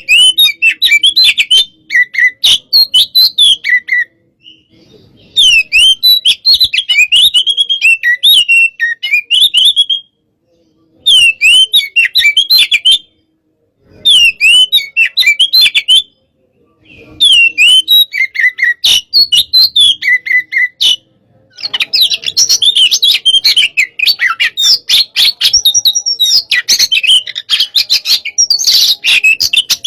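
Oriental magpie-robin (kacer) singing loudly in fast, varied phrases of whistles and chattering notes, in bursts of a few seconds with short pauses, then without a break over the last eight seconds. The song is the aggressive 'hot-type' kind used as a provoking recording to set other magpie-robins singing.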